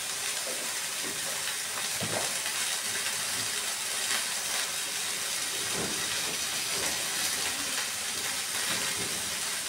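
Eggplant and onion frying in oil in a pan, a steady sizzle, with a couple of faint knocks.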